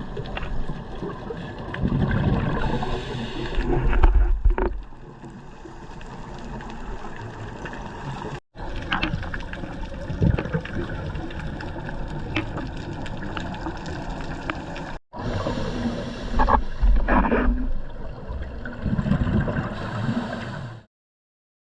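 Underwater camera audio of a scuba diver: a steady muffled water rumble with several louder surges of exhaled regulator bubbles. The sound drops out briefly three times at edit cuts.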